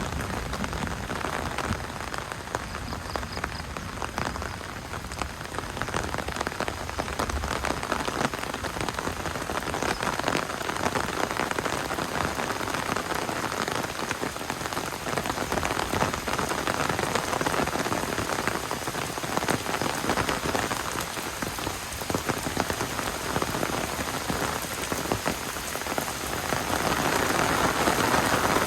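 Steady rain falling, a dense patter of drops that grows a little louder near the end.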